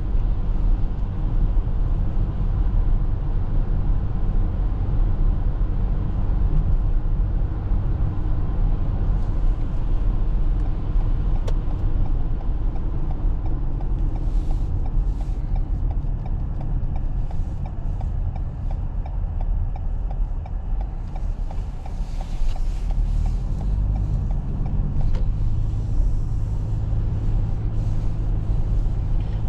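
Steady low rumble of road and tyre noise inside a Toyota RAV4 hybrid's cabin while driving on snowy roads. Short higher hissing sounds come and go in the second half.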